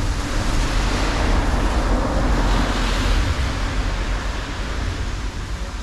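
Highway traffic passing under an overpass: a vehicle's tyre and engine noise with a deep rumble swells to a peak about halfway through, then fades as it goes by.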